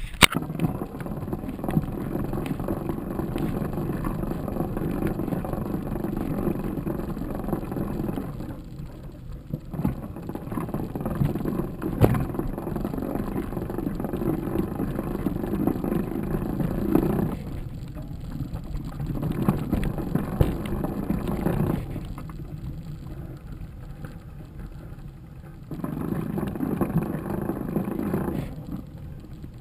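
Rumbling wind and trail noise from a mountain bike being ridden, with the odd sharp knock of the bike over rough ground. It comes in long loud stretches with a few shorter, quieter lulls.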